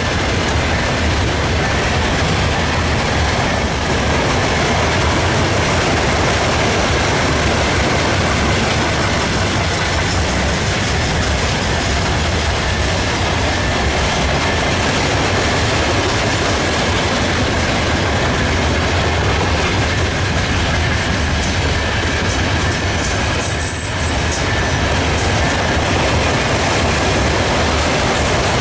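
Freight train wagons rolling past at speed, a steady loud rumble and clatter of steel wheels on the rails.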